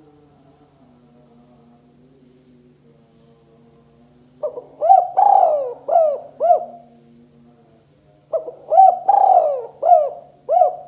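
Spotted dove (tekukur) cooing loudly: two phrases of four or five arching coo notes, the second starting about four seconds after the first.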